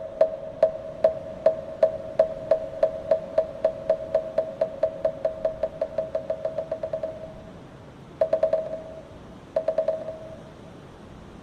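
Moktak, the Korean Buddhist wooden fish, struck with its mallet: hollow, pitched wooden knocks that start evenly spaced and steadily speed up into a fast roll, which stops about seven seconds in. Two short quick rolls follow.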